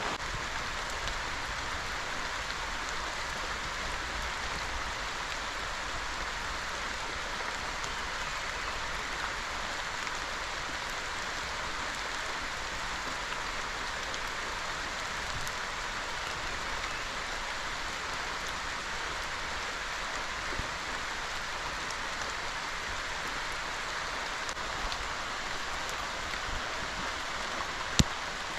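Steady rain falling, an even hiss with no change in strength. A single sharp tap sounds near the end.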